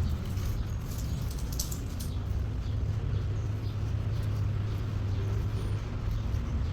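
Steady low outdoor rumble, with a few short high chirps about one to two seconds in.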